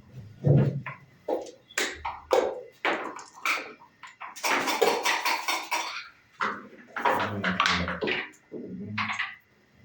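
Backgammon play: dice rattling and clattering onto the board, and checkers clicked down, in an irregular series of sharp knocks with a denser clatter about halfway through.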